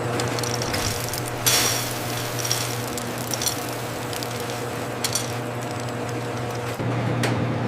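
Production-line machinery running with a steady low hum, scattered light clinks and clicks, and a short hiss-like burst about a second and a half in.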